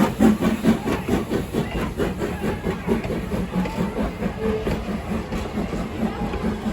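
Steam locomotive working, its exhaust beating in quick, even chuffs several times a second.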